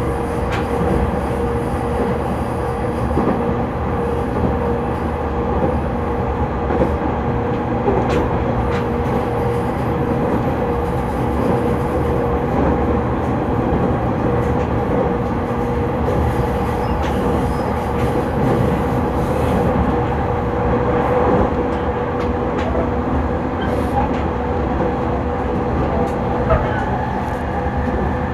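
JR 209-series electric train running on the Narita Line, heard from inside the car: a steady rumble of wheels on rail under a steady whine that holds one pitch, with a few faint clicks. Near the end a lower tone joins in.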